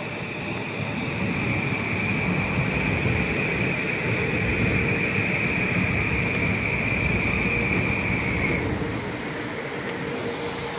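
Metro-North M8 electric multiple-unit train passing through the station: a steady rumble of wheels on rail, with a high, steady whine that stops about nine seconds in.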